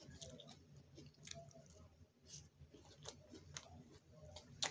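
Faint chewing of a mouthful of salad, with wet lip smacks and small sharp clicks scattered through, the loudest near the end.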